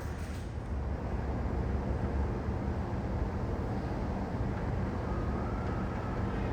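Jet aircraft engines, a steady low rumble with a faint thin whine a little over halfway through.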